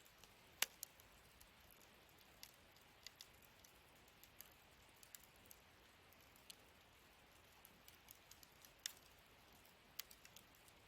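Wood fire in a fire pit stand crackling: scattered sharp pops and ticks at irregular intervals over a faint steady hiss, the loudest pop about half a second in.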